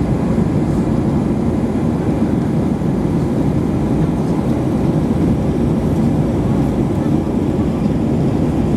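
Steady low drone of engine and airflow noise inside the cabin of an Airbus A320 airliner.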